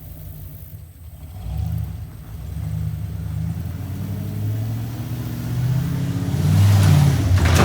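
Off-road race truck's engine revving hard, shifting in pitch and growing louder as the truck approaches. A rush of noise comes near the end.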